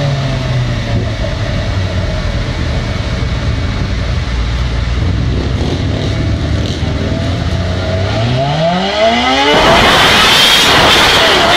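Motorcycle engine on a dynamometer running at low revs, then revving up in a rising sweep near the end and breaking into a much louder full-throttle roar.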